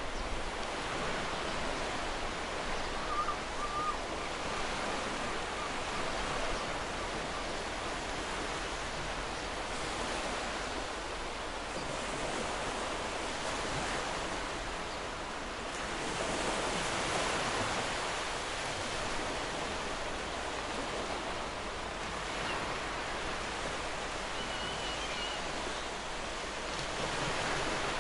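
Ocean surf washing in and out: a continuous wash of wave noise that swells louder and eases off every few seconds.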